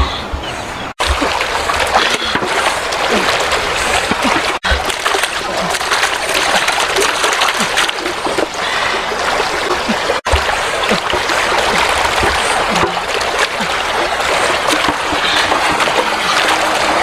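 Stream water flowing and splashing steadily, dropping out briefly three times.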